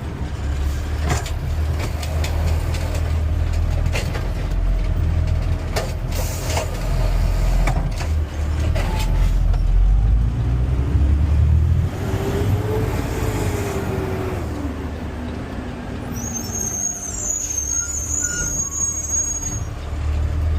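Garbage truck running, heard from the driver's cab: a steady low engine rumble with several clunks, a short hiss about six seconds in, and a whine that rises and then falls from about twelve seconds in.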